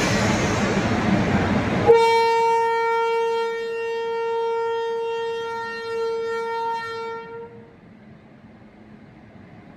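Rushing running noise of a train, cut off abruptly about two seconds in. Then a single long, steady locomotive horn blast of about five seconds fades away, the usual way the loco crew acknowledges the train manager's proceed signal.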